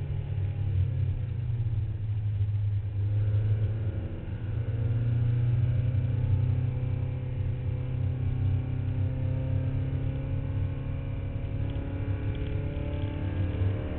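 Porsche 944 race car's four-cylinder engine under hard driving, heard from inside the cabin: the pitch falls about four seconds in as the driver lifts, then climbs again under acceleration, and keeps rising and falling through the corners.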